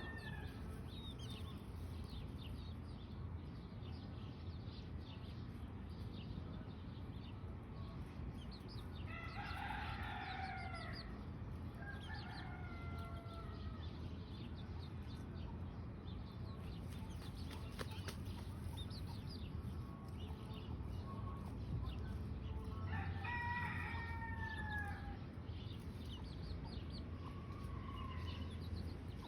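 Domestic rooster crowing twice, about nine seconds in and again near twenty-three seconds, with shorter chicken calls in between and near the end, over a steady low background rumble.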